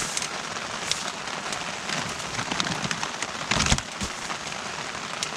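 Heavy rain falling steadily on the tent and tarp, with scattered louder drops and a brief thump about three and a half seconds in.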